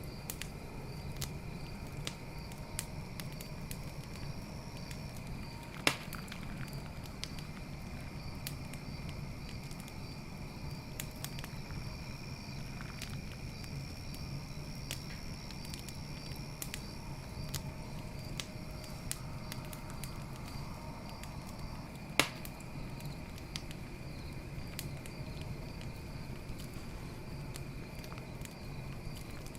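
Campfire burning with steady crackling and two sharp louder pops, about six seconds in and again about twenty-two seconds in, over a low rumble. Crickets chirp steadily behind it.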